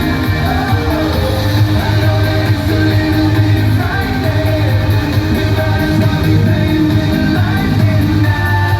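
Live pop band playing loudly, led by guitar over a heavy bass line, in a passage after the last sung line.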